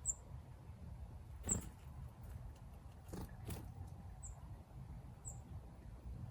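Four short, very high chirps, well spaced, from a small bird foraging, with a few soft rustles or pecks over a steady low rumble.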